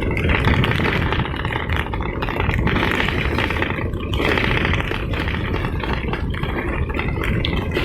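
Vehicle travelling along a rough road, with a steady low rumble and rattling and scraping throughout.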